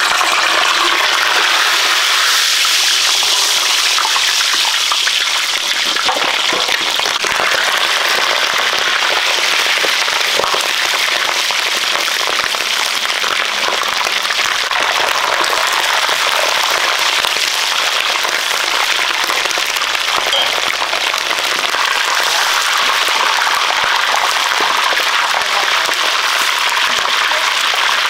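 Pork frying in hot cooking oil: a steady sizzle with fine crackling.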